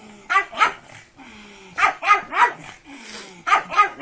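Pug barking in quick pairs and triples, about seven sharp barks in all.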